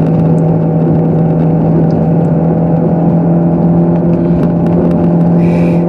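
Car engine and road noise heard from inside a moving car's cabin: a steady, loud engine drone that holds one pitch throughout.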